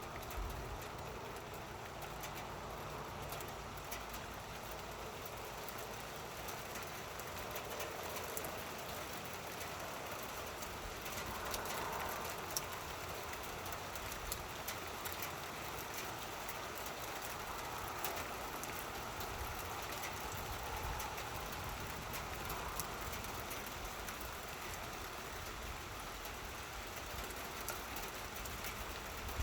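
Steady rain falling during a thunderstorm, an even hiss with many faint scattered drop ticks.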